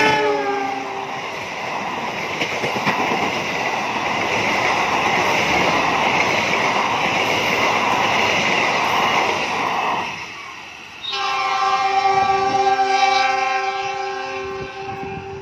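A passenger train running past close by, a steady rush and clatter of the coaches on the rails, just after its CC206 diesel locomotive's multi-tone horn drops in pitch as it passes. About eleven seconds in, the horn sounds again in one long chord of several tones for about four seconds as the train draws away.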